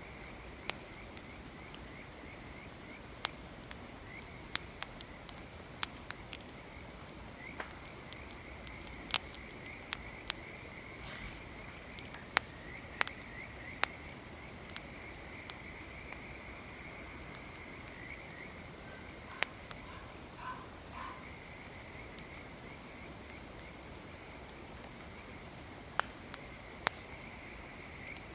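Wood fire crackling, with sharp pops at irregular intervals, over a steady high-pitched chirring of night creatures.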